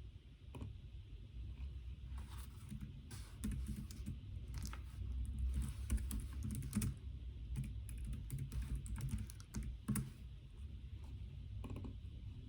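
Typing on a computer keyboard: irregular runs of keystrokes that come thickest through the middle and thin out near the end, over a low steady room hum.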